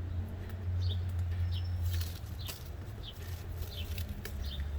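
Small birds chirping, a string of short high chirps, over a steady low rumble. From about halfway in, a run of brief crackling clicks.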